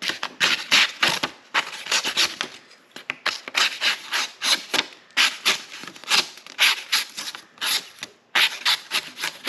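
A Spyderco Pacific Salt 2 knife blade slicing repeatedly through a material, quick scraping strokes two or three a second, testing its out-of-the-box sharpness.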